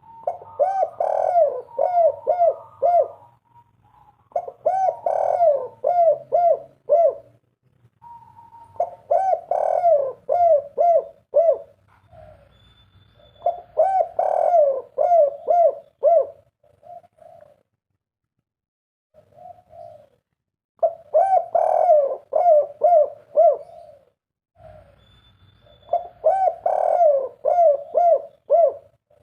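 Spotted dove (tekukur) cooing in repeated song phrases, each a quick run of low coos. The phrases come every three to four seconds with short pauses between.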